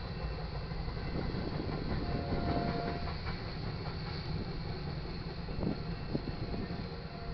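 Empty freight cars of a passing train rolling by, a steady rumble with wheels knocking over the rail joints and a brief high squeal about two seconds in.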